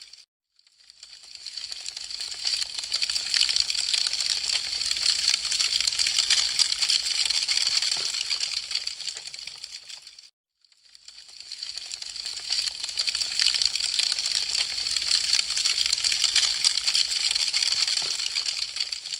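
Wood fire crackling with a dense run of sharp snaps and pops. The crackle fades out to silence just after the start and again about ten seconds later, each time fading back up.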